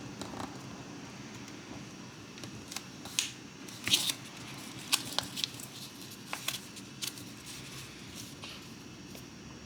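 Origami paper being folded and creased by hand: a scatter of short crisp crackles and taps, thickest from about three to seven seconds in, over a faint steady background hum.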